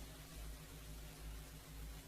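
Faint room tone: a low steady hum under a soft hiss.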